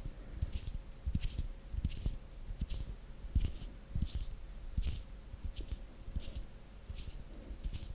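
Slow ASMR hand sounds close to the microphone: hands rubbing and brushing together in short soft swishes, roughly one every half second to second, with soft low bumps between them.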